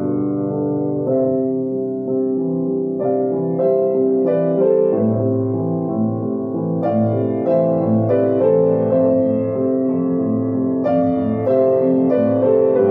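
Soft background piano music: slow, gentle chords with notes struck every second or so.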